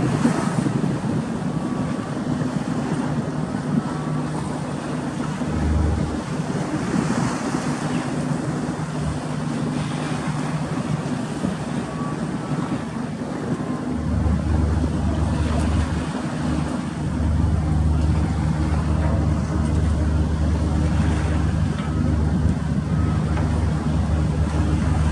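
Wind and rough sea at sea aboard a passenger ship, over the steady hum of the ship's engines. Wind buffets the microphone with a low rumble, heavier from about halfway through.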